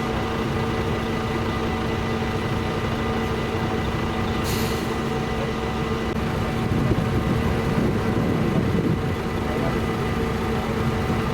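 A heavy vehicle's engine running steadily, with a short hiss of air about four and a half seconds in and a louder rumble for a couple of seconds near the middle.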